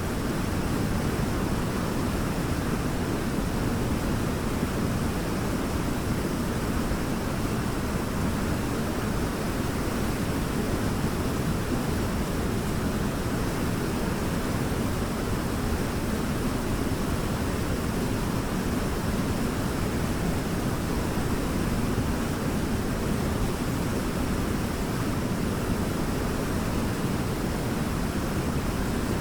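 Waterfall: a steady, deep rush of falling water that stays even throughout, with no birds or music over it.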